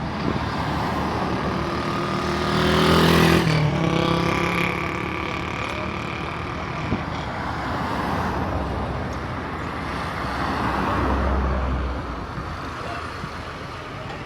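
Airplane making a low pass: its engine swells to its loudest about three seconds in, drops in pitch as it goes by, then carries on as a fainter drone.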